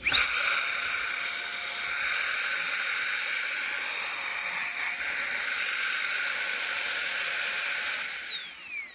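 Flextail Tiny Pump 2 mini electric air pump running: its motor spins up quickly to a steady high-pitched whine, then winds down about eight seconds in as it is switched off.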